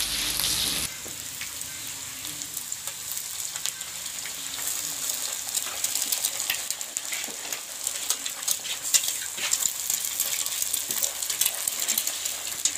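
Sliced onions and an egg sizzling in hot oil in a black iron wok, with a spatula stirring and scraping through them and many small crackling pops. The level drops suddenly about a second in, and the crackle grows livelier after a few seconds.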